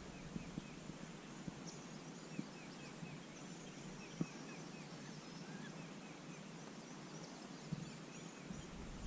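Faint birds chirping in short, repeated calls, with a few soft clicks and one sharper click about four seconds in.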